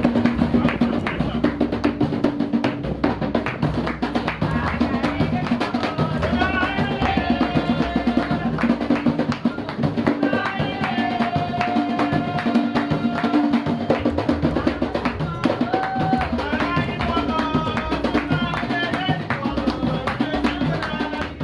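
Garifuna drum music with a steady, dense beat, and a voice singing over it from about six seconds in.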